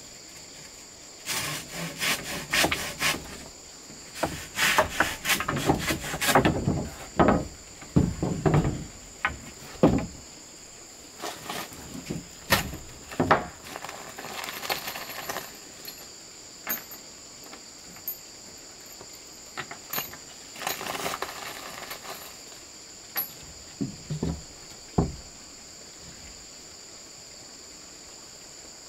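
Wood being worked by hand: irregular spells of knocks and scraping strokes that stop for the last few seconds, over a steady high buzz of insects.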